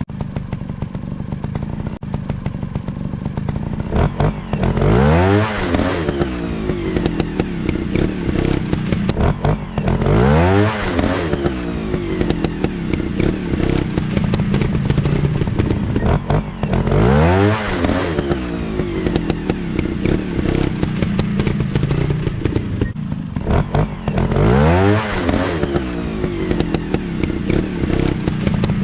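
Motocross dirt bike engine running, rising and falling in pitch four times, about every six to seven seconds.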